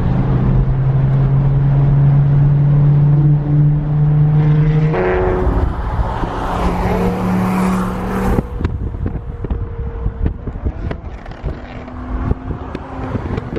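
Car engine and exhaust droning steadily while driving. About five seconds in the drone steps up in pitch under a louder rush of noise as the car accelerates. Near eight seconds it falls away to a quieter road sound with scattered short clicks.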